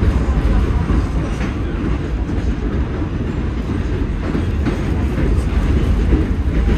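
Moving train heard from inside a passenger car: a loud, steady low rumble of wheels on the rails, with a few faint ticks.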